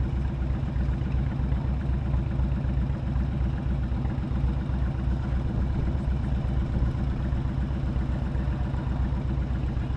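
Motorcycle engine running at a steady speed, its low, even firing pulse constant throughout.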